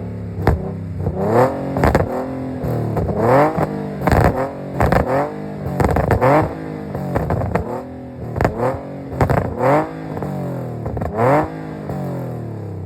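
Nissan 370Z's 3.7 L V6 through longtube headers and a 3-inch true dual catback exhaust, revved in about nine quick blips roughly a second apart, with sharp cracks between some of them. The engine drops back to idle near the end.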